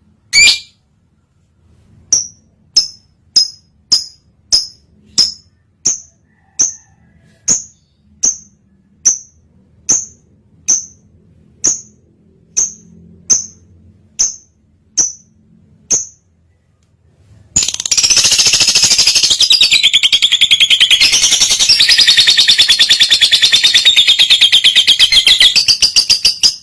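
Lovebird in breeding condition calling: single sharp, high chirps repeated about twice a second, then from about two-thirds in a loud, fast, unbroken chatter lasting about nine seconds, the long 'konslet' chattering song. It stops abruptly at the end.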